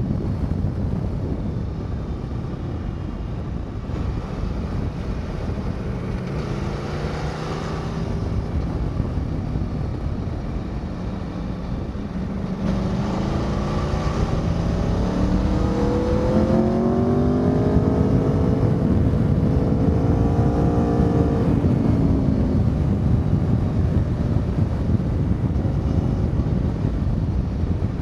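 Aprilia Tuono V4's V4 engine pulling under acceleration over heavy wind rush. Its pitch climbs briefly about a quarter of the way in, then rises longer and more strongly through the middle before easing off.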